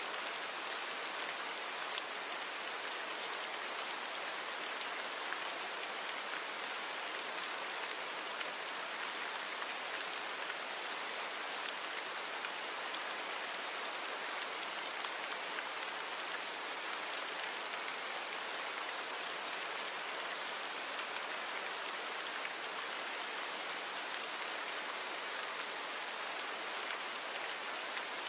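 Steady rain falling on a surface, an even hiss of many small drops with little low end and no change in intensity.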